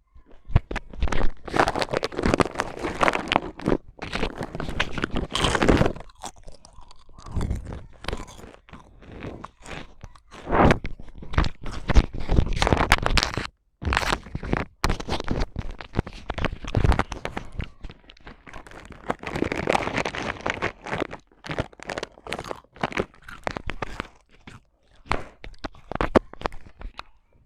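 Loud, irregular crunching as something is chewed, a dense run of crunches broken by a few brief pauses.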